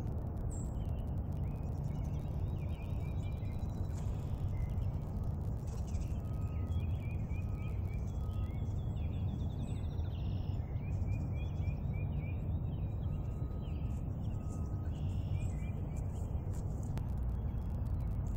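Songbirds singing and calling in repeated quick chirp series and whistled notes, over a steady low rumble.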